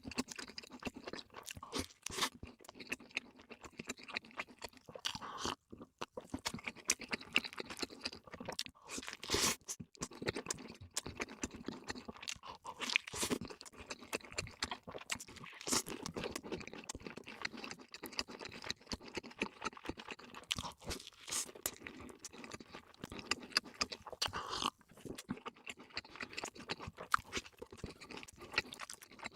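A person chewing and crunching fast food close to the microphone, with dense, irregular crunches.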